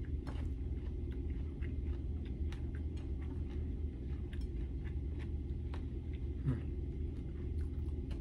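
A person chewing a mouthful of rice and fried chicken, with scattered small wet mouth clicks, over a steady low hum. Once, about six and a half seconds in, there is a short falling hum from the throat.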